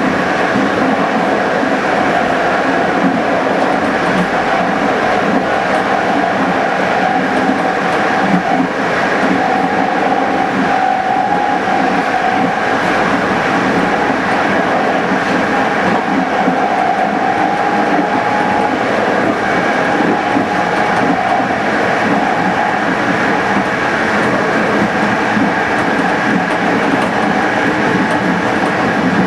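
Passenger train running steadily along the line: continuous wheel-on-rail running noise with a steady whine.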